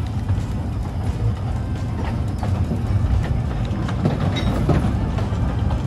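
Kurobe Gorge Railway narrow-gauge trolley train running, heard from aboard: a steady low rumble of wheels on rail with scattered clicks and rattles.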